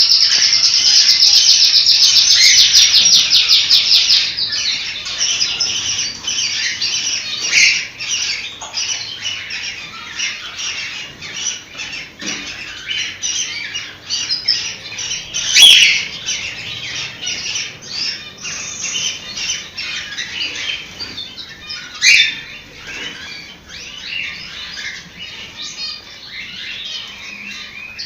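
Cockatiels chirping and calling: a dense, fast chatter for the first few seconds, then scattered high chirps and whistles, broken twice by a loud sharp squawk, about halfway through and again a few seconds later.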